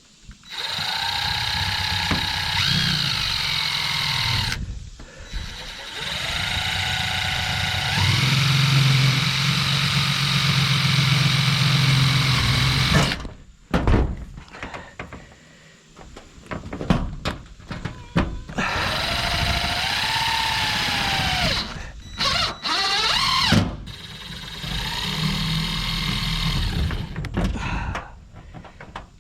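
Power tool motor running in four long bursts of several seconds each, its pitch dipping and recovering as it takes load.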